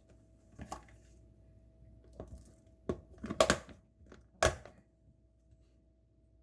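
Kitchen knife cutting through a sandwich on a cutting board: a few short, sharp crunches and knocks, the loudest cluster about three and a half seconds in and a single hard knock about four and a half seconds in.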